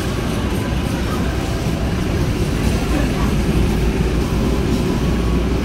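KAI passenger train's coaches rolling past along the track, a steady low rumble of wheels on rails.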